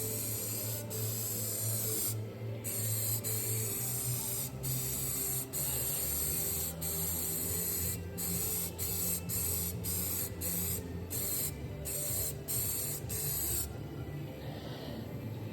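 Aerosol rattle can spraying primer in a run of hissing bursts with brief pauses between them, stopping near the end, over a steady low hum.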